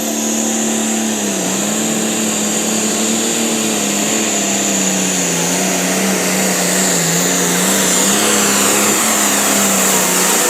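A tractor-pull competitor's engine running at full throttle under load down the track. Its pitch holds nearly steady with small dips, a high whine rides above it, and it grows slightly louder through the run.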